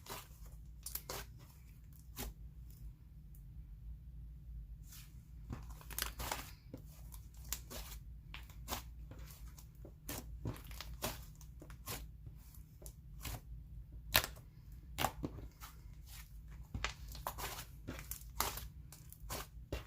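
Slime being squished and stretched by hand, giving many irregular short sticky clicks and pops.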